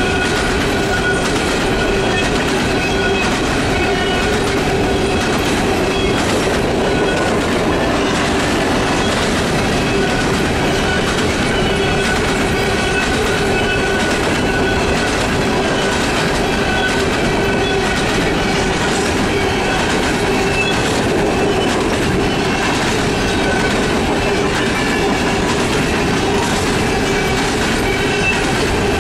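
Freight train of open-top hopper cars rolling steadily past, wheels clattering over the rail joints, with a steady thin squeal of steel wheels on the rail.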